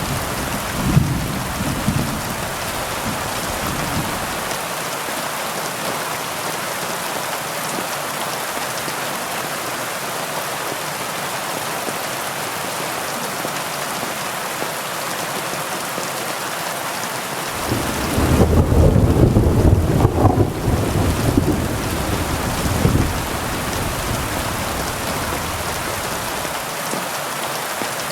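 Heavy rain falling steadily. A low thunder rumble fades out in the first few seconds, and a louder roll of thunder rises and rumbles for about five seconds from roughly two-thirds of the way through, the loudest part.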